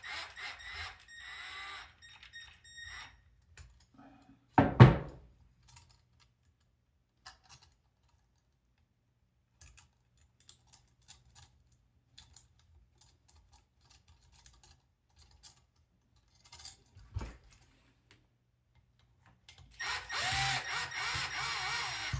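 Small electric screwdriver whining as it drives screws, once at the start and again near the end, with a sharp knock about five seconds in, another about seventeen seconds in, and small clicks of parts being handled between them.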